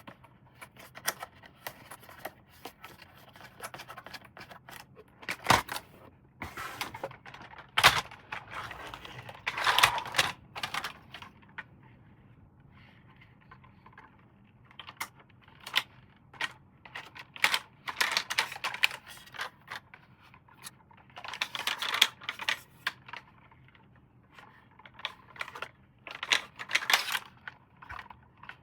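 Irregular clicks, taps and rustling from a plastic toy and its packaging being handled during unboxing, with a few short bursts of rustling spread through.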